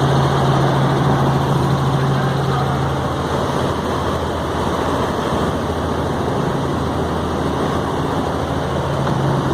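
Helicopter in flight: steady engine and rotor noise with a low hum that eases for a few seconds in the middle.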